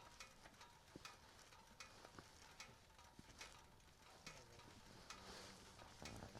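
Near silence with faint, irregular clicks.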